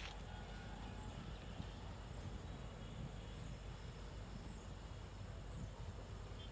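Quiet outdoor ambience: a faint steady low rumble with small high chirps repeating about once a second.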